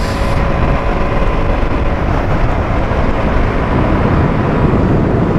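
KTM Duke 200's single-cylinder engine running steadily while the motorcycle is ridden, mixed with wind rushing over the microphone.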